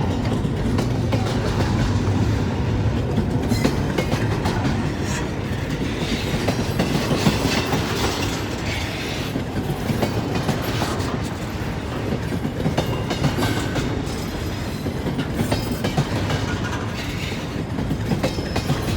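Freight train cars rolling past, steel wheels clacking over the rail joints in a steady, continuous rumble.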